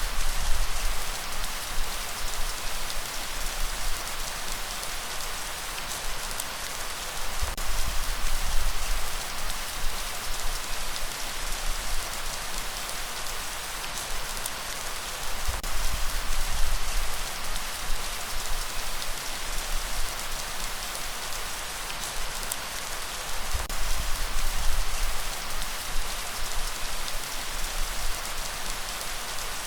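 Steady heavy rain, a dense hiss of drops falling on a surface. Low rumbling swells rise and fall beneath it about every eight seconds, four times.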